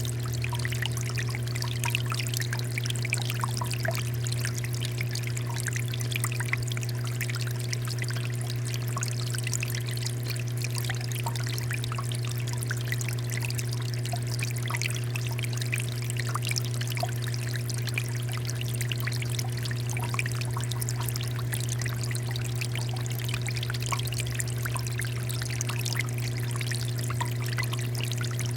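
Water fountain flowing steadily, water pouring and splashing with many fine drips, over a steady low hum.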